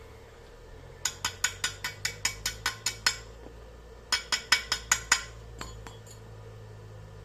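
Metal being tapped with a hammer in two quick runs of ringing strikes, about five a second: about eleven blows, a pause, then six more.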